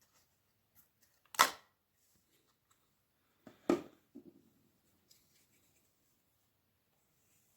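Two sharp clicks or knocks about two seconds apart, followed by faint rustling handling noise.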